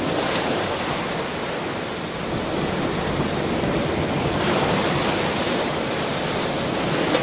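Ocean surf: a steady rush of waves washing on a shore, swelling a little about halfway through.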